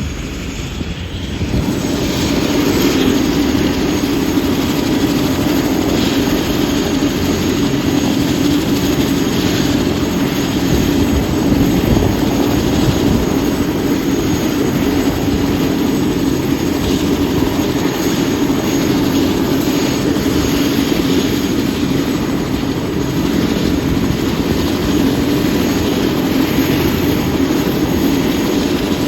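Turbine helicopter running, a steady engine and rotor noise with a strong hum that grows louder about a second and a half in and then holds.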